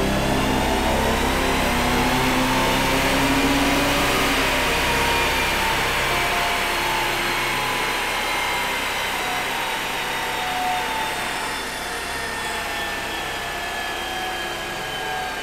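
Jaguar E-Type engine running under load on a rolling-road dyno while its new fuel injection is being mapped. The revs climb for about the first three seconds, then slowly fall away.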